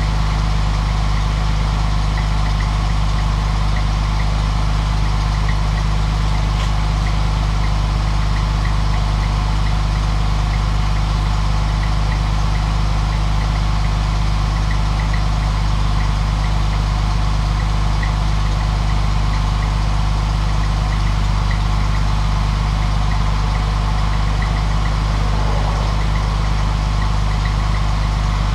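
Newly installed engine in a 1950 Dodge idling steadily on its first run, a constant low running note with a faint light ticking over it.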